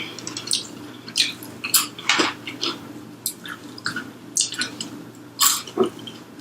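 Close-miked chewing of crispy fried food: about a dozen short, irregular crunches.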